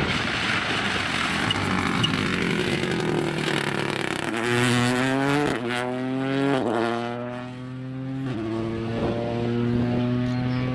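Rally car accelerating hard through the gears. After a rougher stretch of engine noise, the revs climb and drop sharply three times, about a second or two apart: quick upshifts. The revs climb again near the end.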